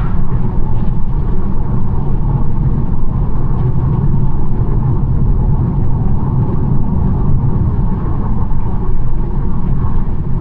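BMW 1 Series driving at a steady pace: continuous tyre and road rumble with engine hum, heavy in the low end.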